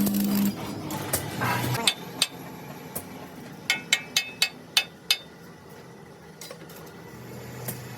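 A run of sharp metal-on-metal taps and clinks, about ten of them irregularly spaced over a few seconds, some ringing briefly, as steel parts are struck. A steady motor hum cuts off about half a second in.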